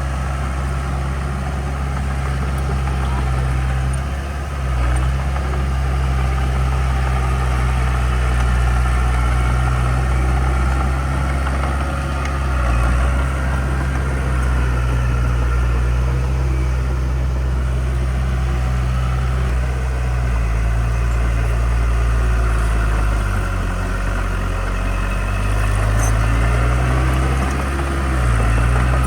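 Heavy diesel engine of earthmoving equipment running steadily. Its pitch dips and shifts a few times, most in the last third.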